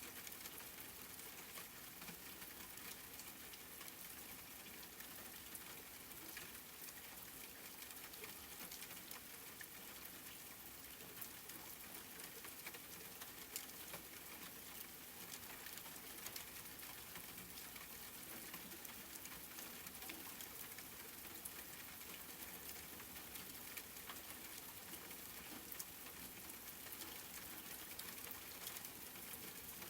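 Steady rain falling, with a fine patter of individual drops ticking through a soft, even hiss.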